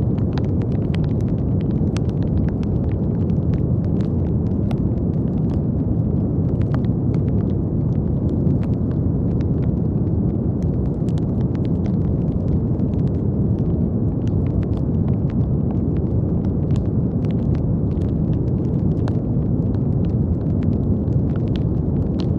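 Brown noise: a steady, deep, even rushing hiss, with faint scattered crackling clicks throughout.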